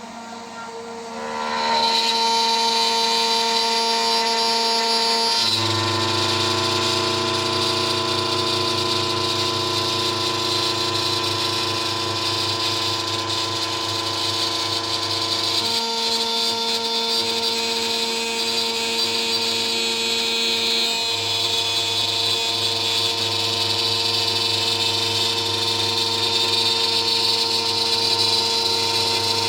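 DIY CNC router spindle whining steadily while a 3 mm three-flute end mill cuts. It gets louder about two seconds in, and its pitch pattern shifts a few times as the cut changes. A low hum comes and goes under it.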